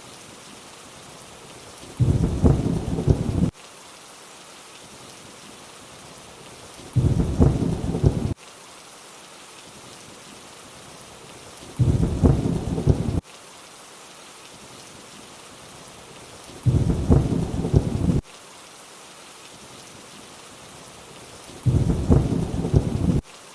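Steady rain hiss with a low thunder rumble that comes back five times, about every five seconds. Each rumble lasts about a second and a half and starts and stops abruptly, the same short rumble repeated at even intervals.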